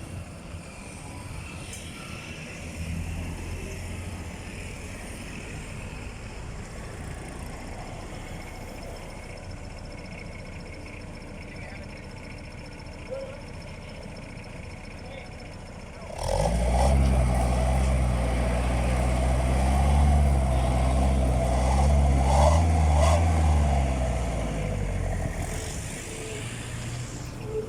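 Vehicle engine running through an aftermarket muffler tip: a steady idle at first, then a little past halfway it is revved hard, the pitch rising and falling several times before it settles back down near the end.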